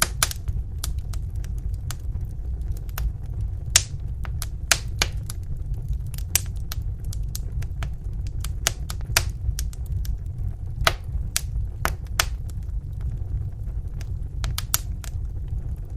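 Wood fire in a fireplace burning, with a steady low rumble of flames and irregular sharp crackles and pops from the burning logs.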